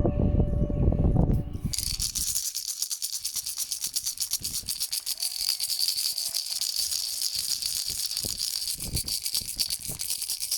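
A hand rattle or shaker shaken rapidly and without a break, a dense, high rattling. In the first second or two a pitched, horn-like tone with a heavy low rumble sounds, then stops abruptly.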